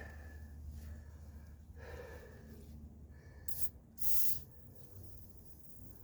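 A man breathing heavily, a few separate noisy breaths with the loudest pair about three and a half to four seconds in, over a low steady hum.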